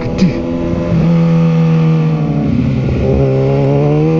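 Sport motorcycle engine running under load at a fairly steady pitch, then, after a brief break about three seconds in, rising in pitch as the bike accelerates.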